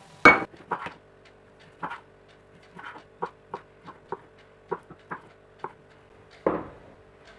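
Kitchen utensils and dishes knocking and clinking in a string of sharp, irregular taps over a faint steady hum. The loudest knocks come just after the start and again near the end.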